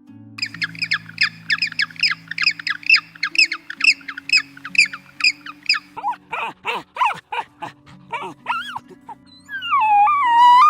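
Bird-like animal calls over soft background music: a quick run of short, sharp chirps, about three a second, then a few lower, looser calls, and one longer wavering call near the end.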